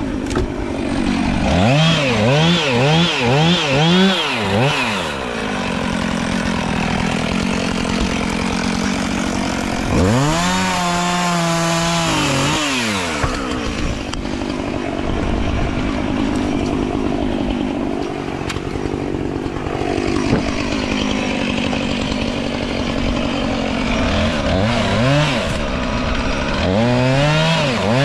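Chainsaw revving in bursts: a quick run of about five revs a few seconds in, one long held rev around the middle and a few more near the end, running steadily between.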